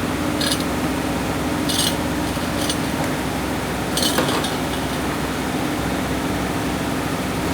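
A steady mechanical hum with a few brief metallic clinks of hand tools in the first half, during work to take the wheels off.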